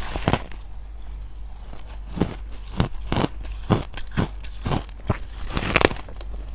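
Freezer frost being bitten and chewed in the mouth: crisp, icy crunches about two a second after a quieter first couple of seconds, the loudest near the end.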